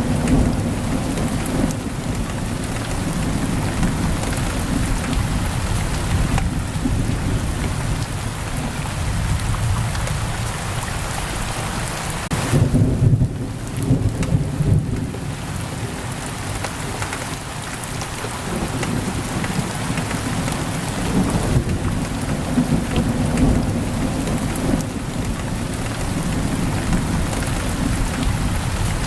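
Heavy rain pouring steadily on a window, with low rolling thunder rumbling underneath. The rumble swells loudest about halfway through.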